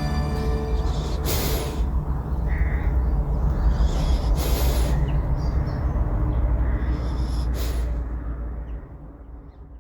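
Birds chirping in a few short, high calls over a steady low rumble, all fading out near the end. The last notes of a song die away in the first second.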